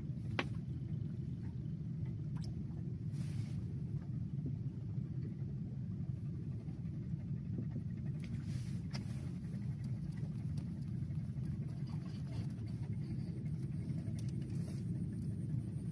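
Wind buffeting the microphone, a steady low rumble, with a few faint clicks on top.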